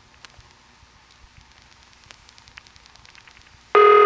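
Telephone ringback on a General Telephone (GTE) line: a pause of faint line hiss with scattered small clicks, then a buzzy ring tone starts again near the end.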